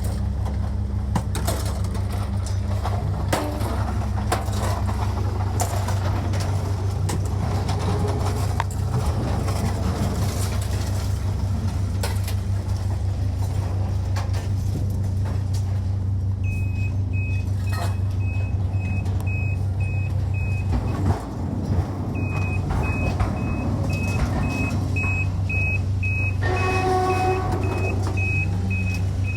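A heavy vehicle's engine running steadily, with scattered knocks and clanks. About halfway through, a reversing alarm starts beeping about twice a second, pauses for a moment, then resumes; a short pitched horn-like tone sounds near the end.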